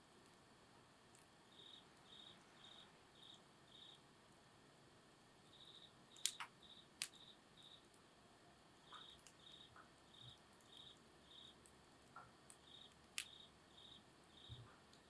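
Quiet campfire with a few sharp pops and crackles of burning wood, the loudest about six and seven seconds in and again near thirteen seconds. An insect chirps in short high trills about twice a second, with a brief pause or two.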